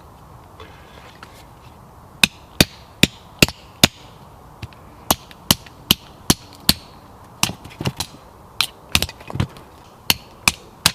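Sharp knocks of something striking wood, in quick runs of about five at roughly two and a half a second, then in more irregular clusters: wood being worked by hand while the campfire is being prepared.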